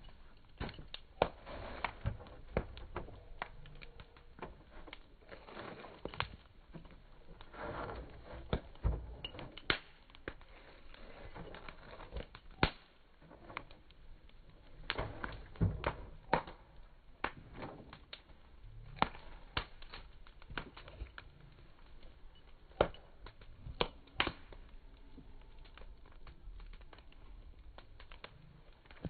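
Wood fire crackling, with irregular sharp pops and snaps of varying loudness over a low hiss.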